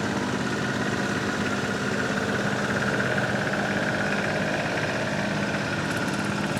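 Garden tractor engine running steadily at an even pitch.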